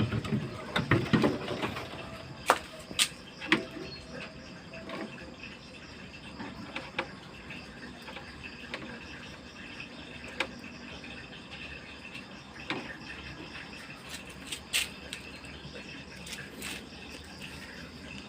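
Scattered clicks and knocks of tools and parts being handled, most of them in the first few seconds, over a faint steady hum.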